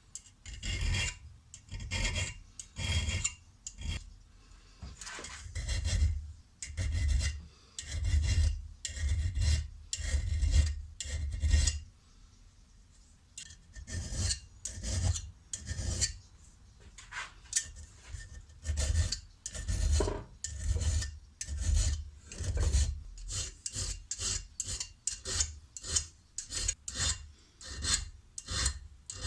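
Hand abrading of a steel spanner in repeated scraping strokes, about one a second. After a pause of a second or two near the middle, the strokes come quicker.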